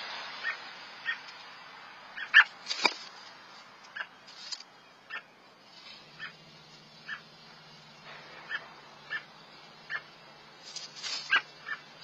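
Short, high bird chirps repeated roughly once a second, with a few louder, sharper calls about two seconds in and again near the end.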